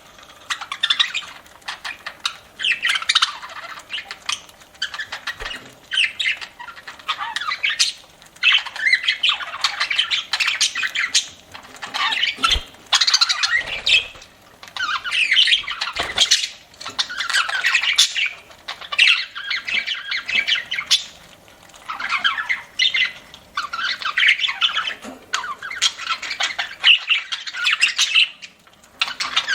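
Budgerigars chattering and warbling in repeated bursts of one to two seconds with short pauses between them. Scattered sharp clicks run through the chatter.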